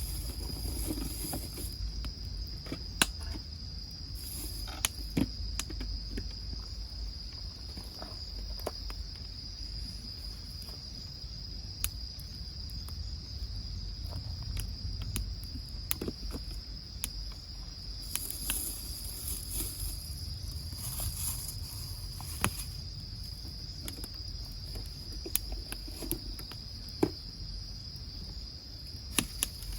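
Crickets chirring steadily at a high pitch, over sharp pops and crackles now and then from a wood fire burning in a Uniflame wood grill.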